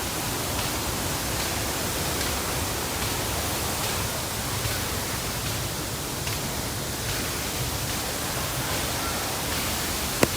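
Steady rushing roar of a waterfall's falling water, even and unbroken, with one sharp click near the end.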